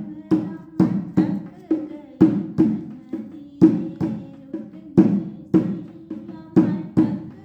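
Drum music: a low, ringing drum beaten in a steady rhythm, about two strokes a second.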